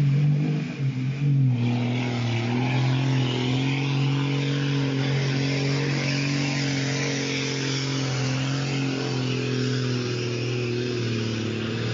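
Heavy truck engine running at steady revs, a constant drone with a hiss of road and wind noise; the pitch wavers briefly in the first second or so, then holds.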